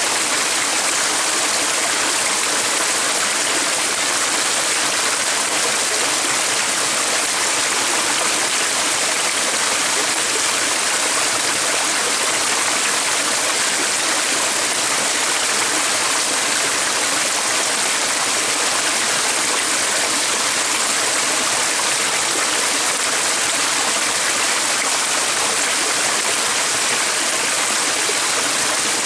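Stream water flowing steadily, an even rushing hiss without change.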